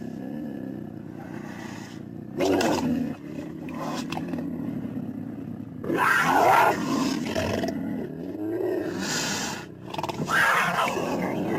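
Saber-toothed cat (Smilodon) creature sound effect: a low, continuous big-cat growl broken by several louder roaring snarls that bend in pitch. The snarls come about two seconds in, at the middle, and twice near the end.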